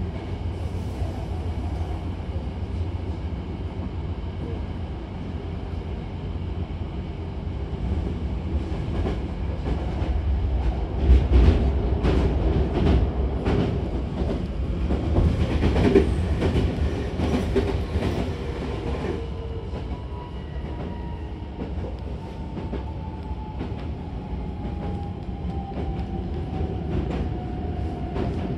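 Hankyu Kyoto Line electric train running, heard from inside the carriage: a steady low rumble with a run of wheel clicks over rail joints in the middle. Near the end, a thin whine falls slowly in pitch as the train slows into the terminus.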